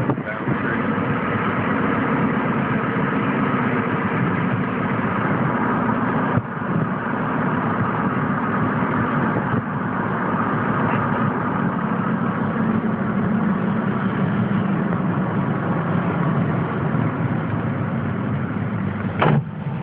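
Steady engine and road noise of a motor vehicle, with a brief dip about six seconds in.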